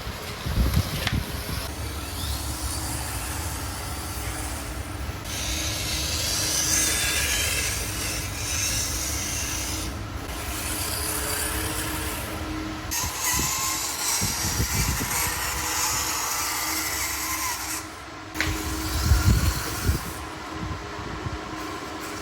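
Mini RC crawler's small electric motor and geared drivetrain running steadily, with a few low thumps. The sound breaks off suddenly a few times.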